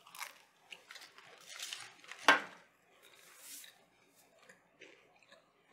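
Close-up chewing and crunching of buttered toast, with one loud, sharp crunch about two seconds in.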